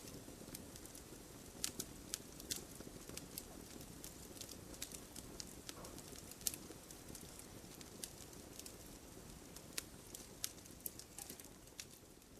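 Campfire crackling: irregular sharp pops and snaps over a low, steady rush of burning wood.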